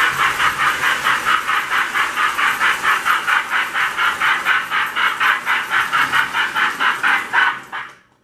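Lionel #746 J class model steam locomotive running, with a fast, even chuffing hiss of about six beats a second that dies away near the end.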